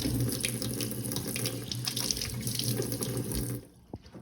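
Water running from a tap into a sink as hands are washed, shut off about three and a half seconds in.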